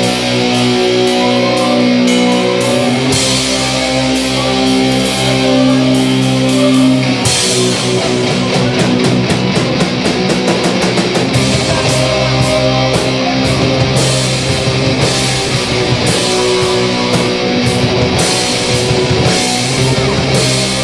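Instrumental rock music with guitar and drums at a steady, driving beat; the drumming grows busier about seven seconds in.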